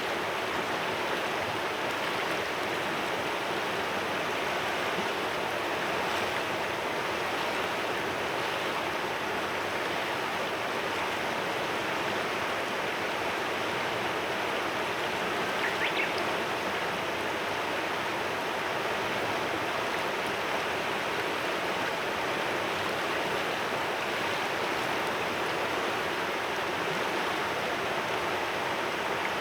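Mountain river murmuring: a steady, even rush of flowing water.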